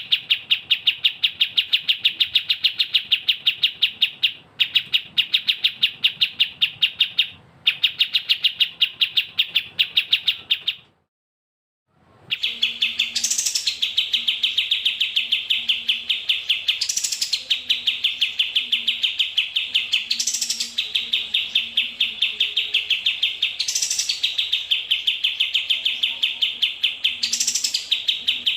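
Recorded songbird chirping in a fast, even string of high chirps. The string breaks off into a second of silence about 11 s in and resumes, now with a sharper, higher note every few seconds.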